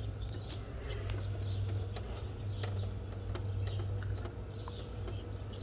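Faint bird chirps over a steady low hum, with a few light clicks as a small plastic sensor is handled.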